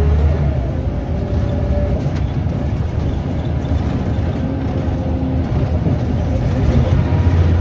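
Scania DC9 9-litre diesel engine of a Scania L94UB bus running with a steady, heavy low drone, growing a little louder near the end.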